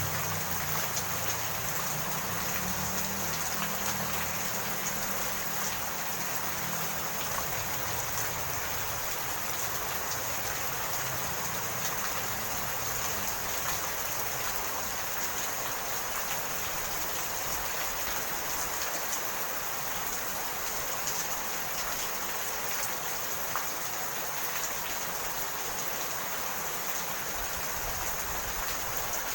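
Steady rain falling. A low rumble underneath fades away over the first several seconds.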